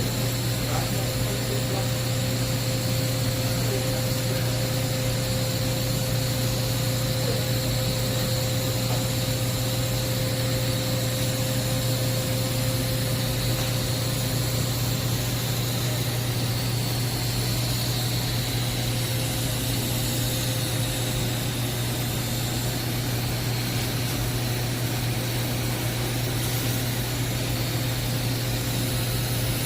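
TIG welding arc on carbon steel pipe, a steady hiss and buzz over a low hum, running unbroken while the final cap bead is laid.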